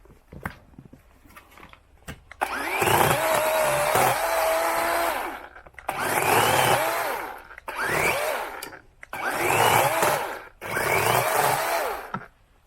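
Small power saw cutting through a tree branch in about five runs, its motor whine climbing as each run starts and dropping as it stops.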